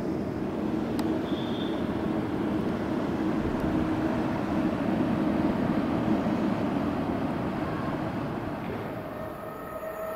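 Passenger train running through the station, a continuous rumble with a steady drone. It is loudest around the middle and eases off near the end, where a new steady whine begins.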